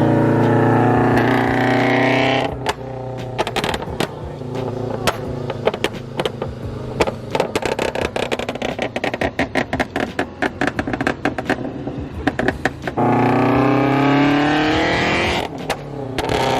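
Scion FR-S's supercharged flat-four running through a straight-piped exhaust with no catalytic converter or mufflers. It revs up for about two and a half seconds, then crackles and pops in a rapid string of backfires from a pop-tune for about ten seconds. It revs up again, then pops once more near the end.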